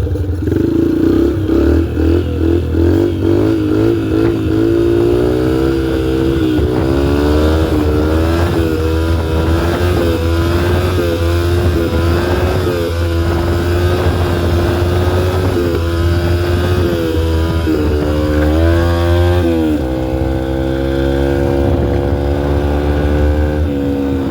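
2003 Yamaha TTR125L's small single-cylinder four-stroke engine pulling hard up the street, its pitch climbing and dropping several times as the revs rise and fall, then settling lower about twenty seconds in and dropping again near the end.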